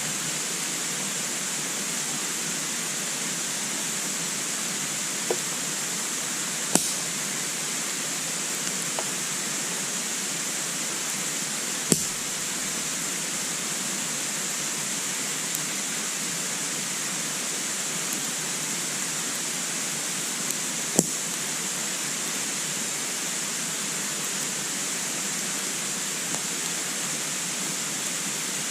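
Wood burning in a compact wood stove: a few sharp crackling pops over a steady hiss.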